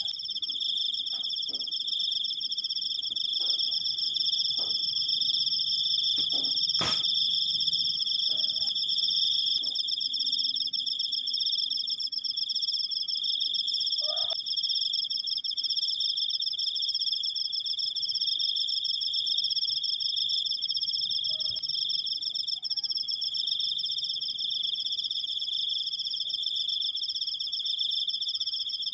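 Cricket trilling in one long unbroken chirr, a steady high-pitched trill at two pitches. A single sharp click comes about seven seconds in, and a few faint short calls sit underneath.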